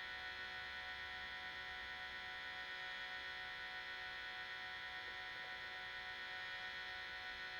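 Sustained, improvised healing-music drone: many steady layered tones held together without a break, with a slight regular wavering in the upper tones.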